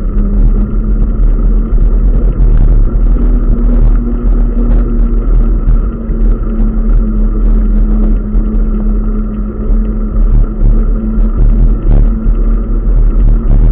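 Steady road and wind noise from riding, a continuous low rumble with a constant hum over it.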